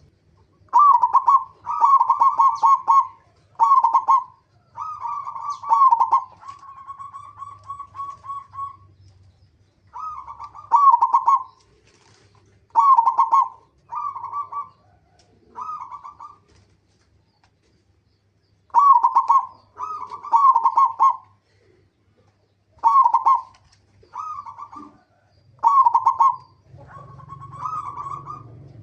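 Zebra dove (perkutut) calling: a series of short rattling coo phrases, repeated every second or two, with a longer trilled phrase about a quarter of the way in and a pause of a couple of seconds past the middle.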